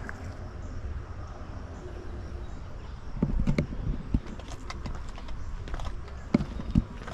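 Wind rumbling on the microphone, with irregular crunching steps and knocks starting about three seconds in, like footsteps on gravel.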